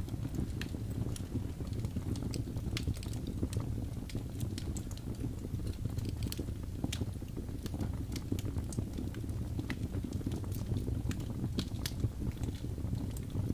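Wood fire burning with a steady low rumble and irregular sharp crackles and pops of the burning wood.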